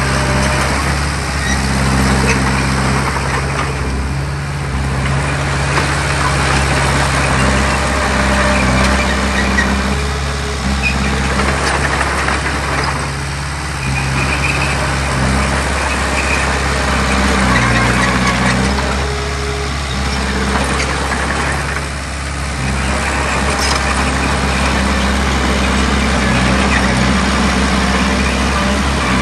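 Heavy diesel earthmoving machinery working: a deep engine running steadily, its pitch shifting a little now and then under changing load, with a harsher rattling, scraping noise over it that swells and fades every few seconds.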